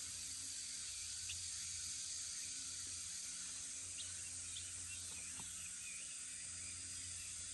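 Quiet field ambience: a steady high hiss, with a few faint, brief chirps and small ticks scattered through.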